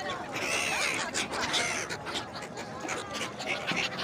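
Several birds calling, many short calls overlapping in quick succession, with a few longer arching calls in the first second and a half.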